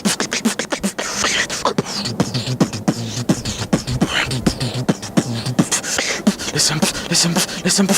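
A beatboxer's mouth-made beat: a fast run of clicks and snare hits, with short bass tones that slide up and down in pitch between them.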